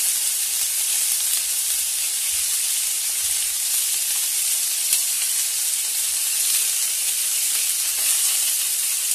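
Steady frying sizzle: tuna pieces searing on a smoking-hot oiled grill pan, with onions and peppers sautéing in a pot beside it.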